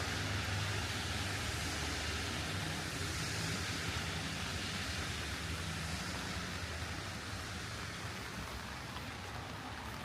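Steady hiss of falling rain, with a low vehicle rumble that fades away toward the end.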